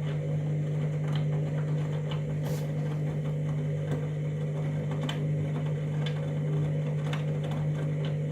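Candy washing machine running the main wash of its Trainers cycle while heating: a steady motor hum with faint, scattered light clicks and knocks.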